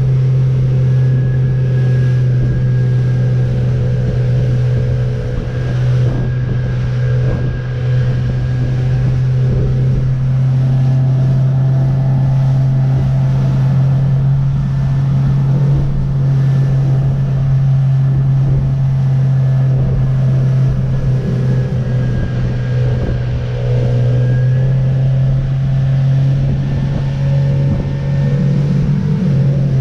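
Jeanneau Merry Fisher motorboat's engine running steadily under way, a constant low drone, with a haze of wind and water noise beneath it.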